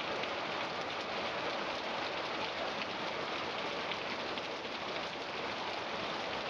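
Heavy rain falling steadily, a dense hiss of drops on hard surfaces with fine pattering.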